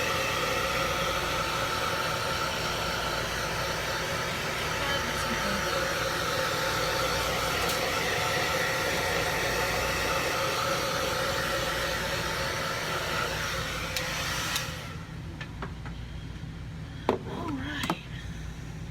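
Hair dryer running steadily on low, blowing over wet poured acrylic paint to draw out bubbles. It is switched off about three-quarters of the way through, followed by a couple of sharp clicks.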